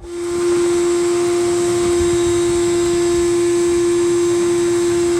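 Shop vac switched on, its motor spinning up within about half a second and then running steadily with a high hum, sucking debris out of the bottom of an air conditioner's condenser unit.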